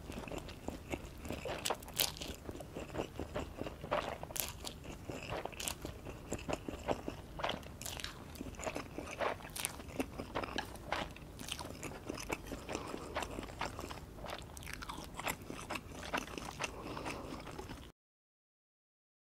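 Close-miked mouth sounds of chewing and biting spicy instant noodles: a dense run of wet smacks and sharp clicks. The sound cuts off to complete silence about a second before the end.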